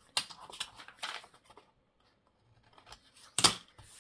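Paper being trimmed and handled: a quick run of crisp rustles and snips in the first second and a half, then one sharp, louder snap about three and a half seconds in.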